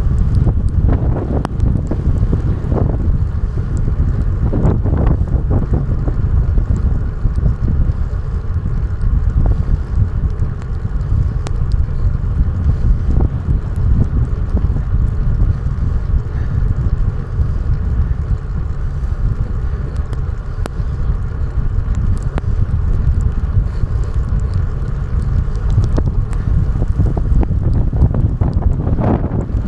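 Wind buffeting the action camera's microphone while riding: a steady low rumble, with a few stronger gusts in the first few seconds and again near the end.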